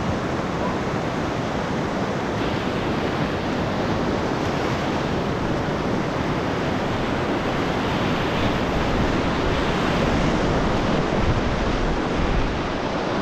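Whitewater rapids rushing steadily, a dense even wash of moving water.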